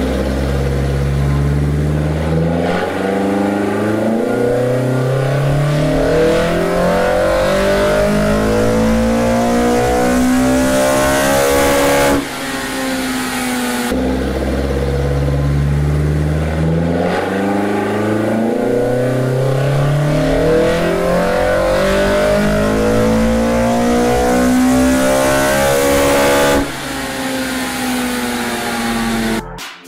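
Toyota 4A-GE twin-cam four-cylinder on individual throttle bodies, breathing through a 60 mm exhaust with muffler, making two full-throttle pulls on a chassis dyno. Each time the engine note climbs steadily for about twelve seconds, revving to about 8,000 rpm, then falls away suddenly as the throttle shuts, with a low running note in between.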